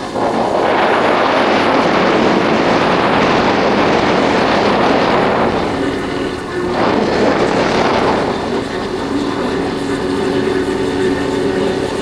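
Yamaha Factor 150 motorcycle's single-cylinder four-stroke engine running on the road, mostly covered by a loud rush of wind on the microphone for the first half. The wind eases about eight seconds in, and the engine's steady hum is heard plainly.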